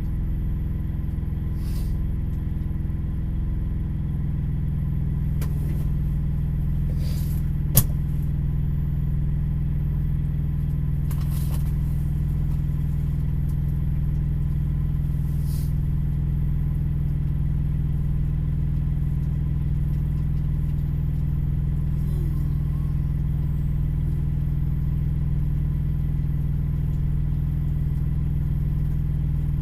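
A truck engine idling steadily, heard through the cab, its low hum stepping up slightly about four seconds in, with a single sharp click about eight seconds in.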